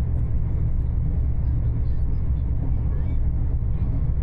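Passenger train running steadily, a continuous low rumble of wheels on rails and running gear.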